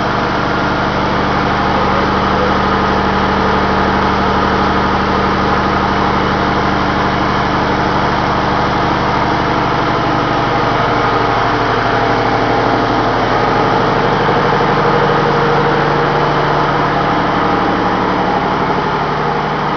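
Running diesel machinery in a ship's engine room: a loud, steady engine drone with a deep layered hum, which shifts slightly about halfway through.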